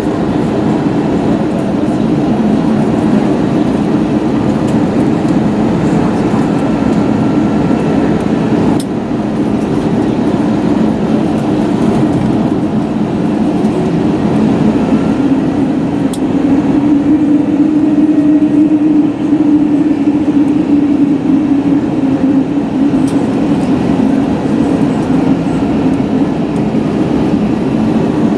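Airbus A321neo cabin noise: a steady, loud drone from the jet engines and airflow, heard from a window seat inside the passenger cabin. It swells somewhat about two-thirds of the way through.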